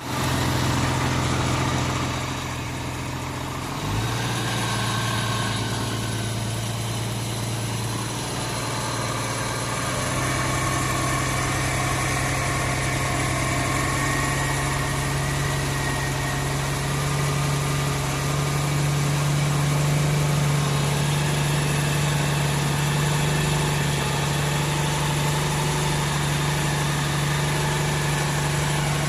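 A 1994 MerCruiser 4.3LX V6 boat engine idling steadily at about 900 rpm, its tone shifting slightly about 4 and 10 seconds in. The engine has a fault that makes it stall after a minute or so of running.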